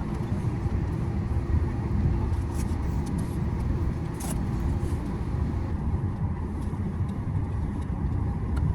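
Airliner cabin noise while taxiing just after landing: a steady low rumble from the jet engines at idle and the wheels on the taxiway, with a faint steady hum above it.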